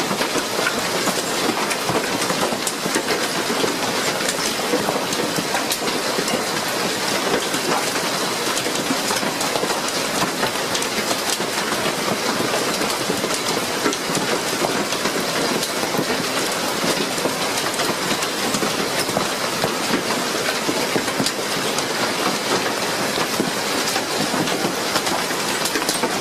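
Heavy hail pelting down in a storm: a loud, dense, unbroken clatter of countless hailstone impacts.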